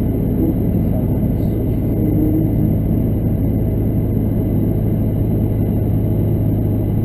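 Chevrolet pickup's Duramax LB7 6.6-litre V8 turbodiesel and road noise heard from inside the cab while driving, a steady low drone.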